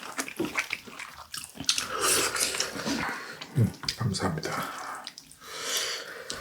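Wet slurping and eating noises as duck broth is sipped from a spoon or bowl, in short noisy bursts with a few murmurs between.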